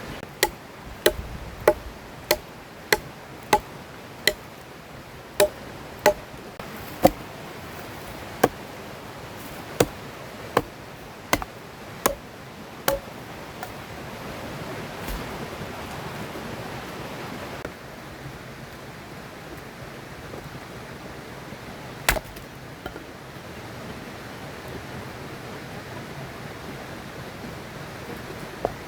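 A run of sharp chopping strikes, about one and a half a second, that stops about thirteen seconds in, followed by two single strikes later on. A steady rush of river water runs underneath.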